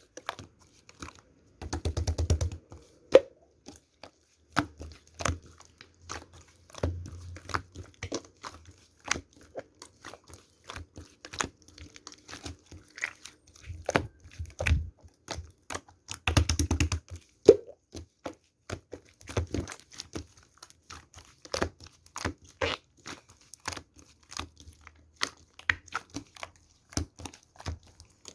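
Slime being squeezed, stretched and pressed by hand, giving irregular sticky clicks, pops and crackles. Denser runs of crackling come about two seconds in and again around the middle.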